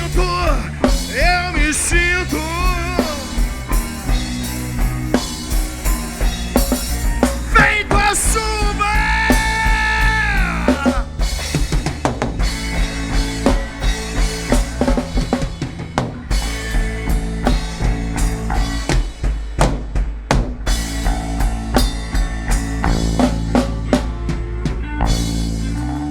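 Blues band playing an instrumental passage live: drum kit with snare and bass drum, a bass line, and lead guitar bending notes with vibrato. A long bent note is held from about eight seconds in.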